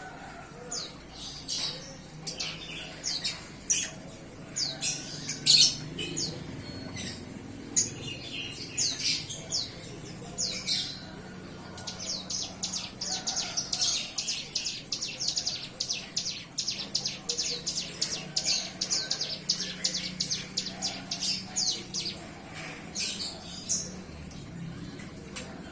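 Young bar-winged prinia (ciblek gunung) just weaned off hand-feeding and beginning to sing: high, sharp chirps. They come scattered at first, then in a fast run of repeated chirps, about four or five a second, for roughly ten seconds before breaking up again.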